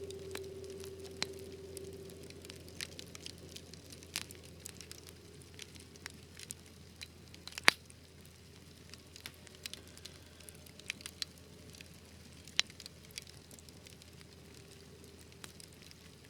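Wood fire crackling: scattered sharp pops and ticks over a faint steady hiss. Two louder pops stand out, about seven and a half seconds and twelve and a half seconds in.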